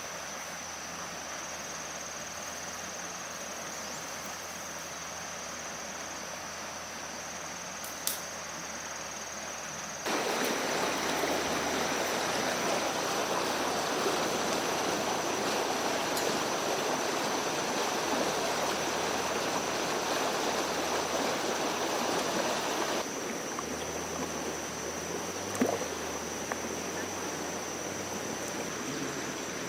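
Running water, like a stream, with a steady high-pitched insect drone over it. The water becomes suddenly louder about a third of the way in and drops back suddenly about two-thirds through. There is a sharp click about eight seconds in.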